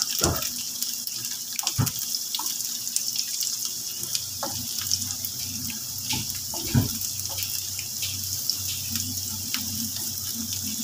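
Julienned carrots and blanched almonds sizzling in hot oil in a frying pan, a steady crackling hiss. A spatula stirring them knocks against the pan a few times.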